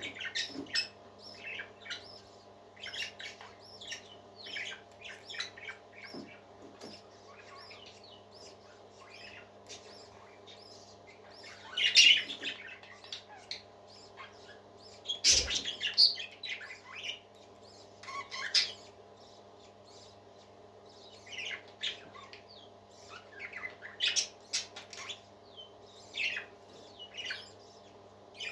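A group of parakeets chirping and chattering in quick, busy bursts, with a few louder squawks about halfway through. A sharp click sounds among them, and a faint steady hum runs underneath.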